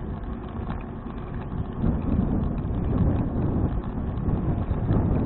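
Wind buffeting the microphone of a bicycle-mounted action camera while riding: a steady low rumble that swells and dips.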